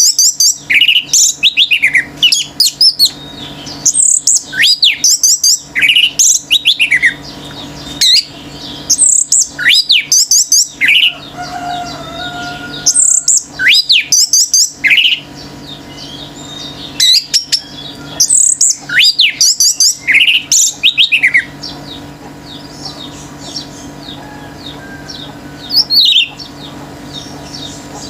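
Orange-headed thrush singing loud, rapid phrases of high whistled notes that slide downward, one burst after another; after about twenty seconds the song stops, leaving fainter chirping from other birds and one more loud call near the end. A low steady hum lies underneath.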